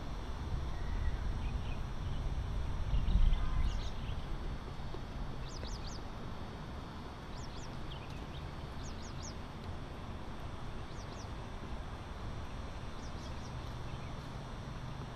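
Small birds chirping in short, high clusters every second or two over a steady low outdoor rumble, with one louder thump about three seconds in.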